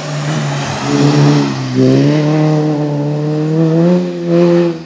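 Small race hatchback's engine revving hard through a cone slalom. The pitch dips about one and a half seconds in, then climbs steadily under throttle.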